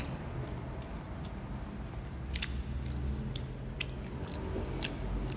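Close-miked chewing of McDonald's french fries, with a run of sharp mouth clicks and smacks in the second half, over a low steady hum.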